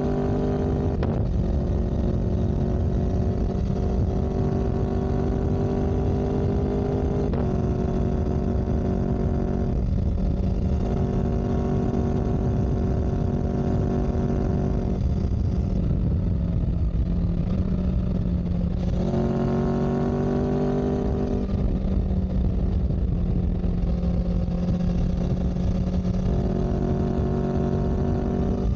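A vehicle engine running under way at a steady loud level. Its note drifts and changes pitch abruptly several times, with a constant low rumble underneath.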